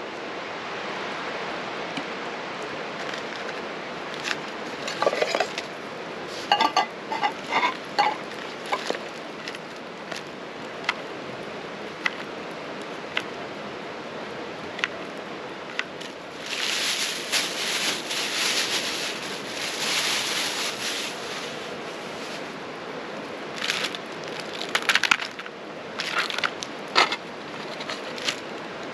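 Camp cooking at a campfire: clinks and knocks of cooking gear and crackling, over a steady hiss, with a few seconds of rustling in the middle.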